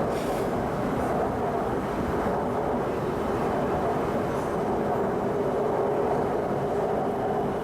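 Shanghai Metro Line 11 train running at steady speed between stations, a continuous rumble with a steady mid-pitched hum.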